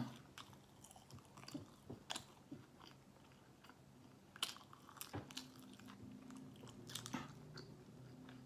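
Faint close-up chewing of a mouthful of Big Mac, with soft mouth clicks scattered through.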